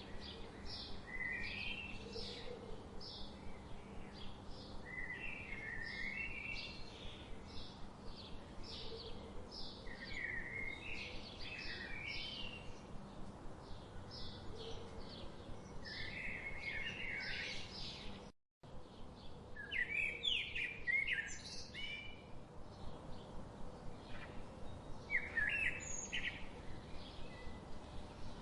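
Songbirds chirping: rapid, repeated short high chirps several times a second, mixed with warbling song phrases. The sound cuts out completely for a split second about two-thirds of the way through.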